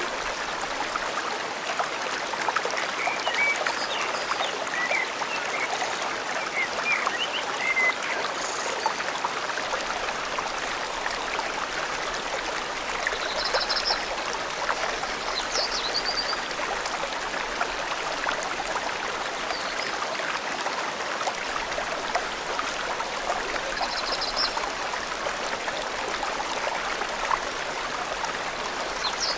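Steady rush of a forest stream flowing over rocks, with scattered short bird chirps above it, a run of several about three to eight seconds in and a few more later.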